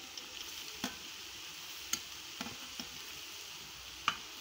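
Grated beetroot frying in oil in a steel pan: a soft, steady sizzle, with a steel spoon clicking and scraping against the pan several times as it is stirred.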